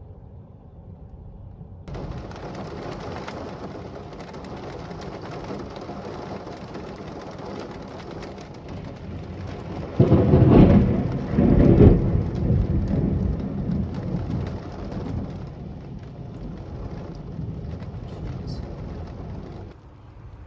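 Rain falling steadily, with a loud clap of thunder about halfway through that peaks twice and rumbles away over several seconds.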